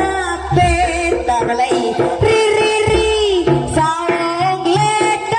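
Live Javanese traditional music: a high-voiced singer holds long, ornamented notes over steady drumming and instrumental accompaniment.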